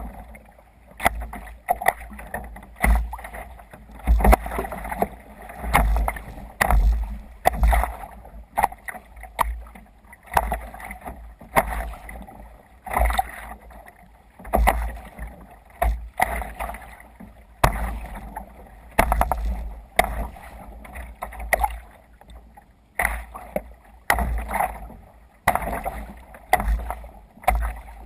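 Water splashing and slapping against a sea kayak's hull as it moves through waves, in irregular surges about once a second, with low buffeting on the microphone.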